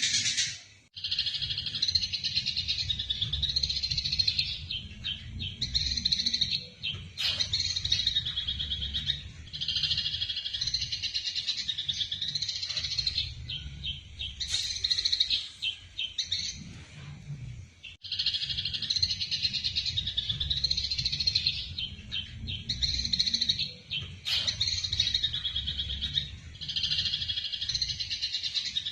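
Eurasian tree sparrows giving the fast, excited chattering of a fight, in dense bouts of a few seconds with short breaks, over a steady low rumble.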